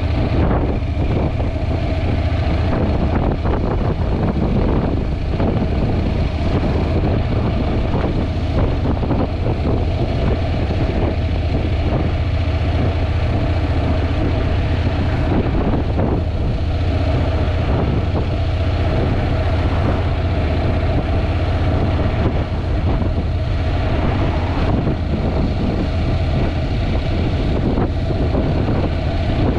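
Wind buffeting the action camera's microphone while riding a Honda NC750X motorcycle, a steady low rumble, with the bike's parallel-twin engine running underneath.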